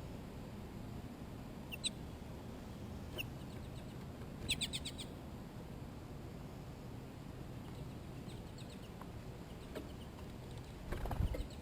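A bird chirping: single short high-pitched chirps about two and three seconds in, then a quick run of several, over a steady low rumble. A louder low thud comes near the end.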